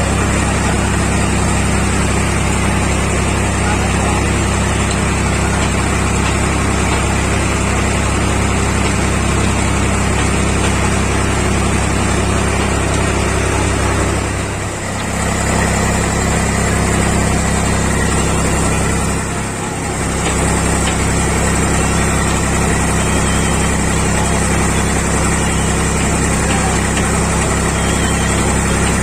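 Tractor engine running at a steady speed while threshing paddy, with a constant mechanical din. The sound dips briefly twice, about halfway through.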